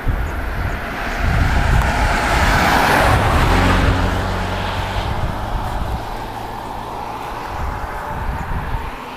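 A motor vehicle passing by, its sound swelling to a peak about three seconds in and then fading, with wind buffeting the microphone.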